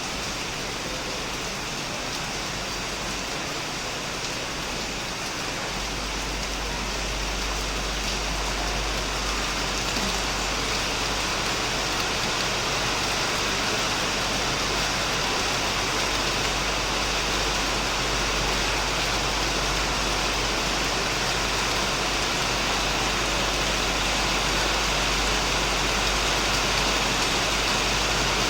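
Heavy rain falling on a shed, a dense, steady hiss that grows a little louder over the first several seconds. A steady low rumble comes in suddenly about six seconds in and stays.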